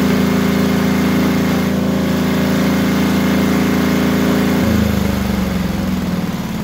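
Wen D6000 generator's single-cylinder diesel engine running steadily with its exhaust removed. About two-thirds of the way through, its note shifts and it gets a little quieter.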